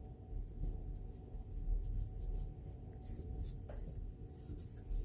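Light scratching and small clicks of sewing machine parts being handled and wiped during cleaning and oiling. They come in a scatter from about two seconds in and are thickest near the end, over a steady low hum.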